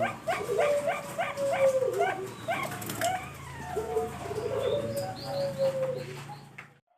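Zebra doves (perkutut bangkok) cooing: a run of short, hooked, staccato notes about two or three a second, overlapped by longer, slightly falling coos, as if more than one bird is calling. The sound cuts off abruptly just before the end.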